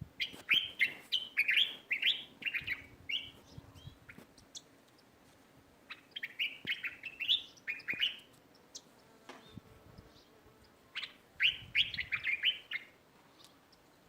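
Small birds chirping in three quick bouts of rapid, high chirps, with short quieter gaps between.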